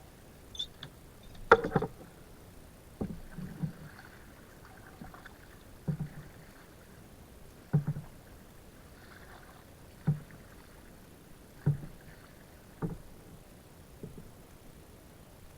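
Kayak paddling: a short knock or splash from the paddle strokes every one to two seconds.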